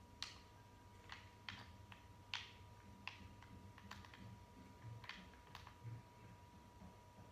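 Faint, irregular clicks and taps, about nine over several seconds, over a faint steady tone.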